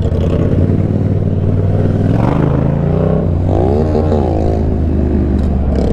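Motorcycle engines running on the move, with a steady low drone and some rushing noise. The revs rise about two seconds in, and there is a quick rise and fall in pitch, like a throttle blip, around the middle.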